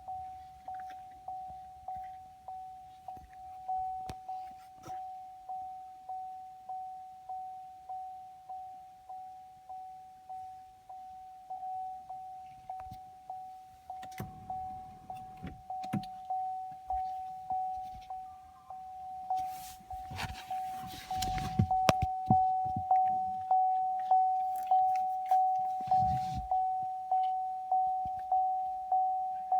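A car's warning chime repeats a single ding about one and a half times a second and gets louder about two-thirds of the way in. Rustling and a few knocks come about halfway in and again a little later.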